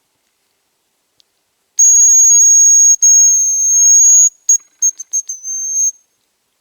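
Hazel grouse decoy whistle blown close by, imitating the grouse's song: a loud, thin, very high whistle held about two and a half seconds with a brief break, then a quick run of short stuttering notes and a last short note.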